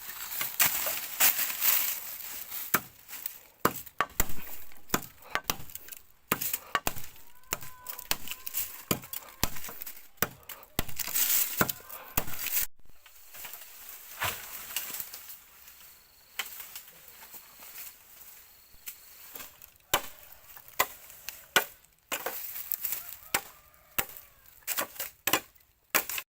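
Bamboo being chopped: irregular sharp strikes, several in quick succession at times, with a short break about halfway through.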